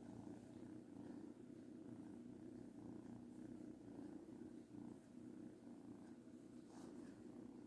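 A kitten purring steadily and faintly.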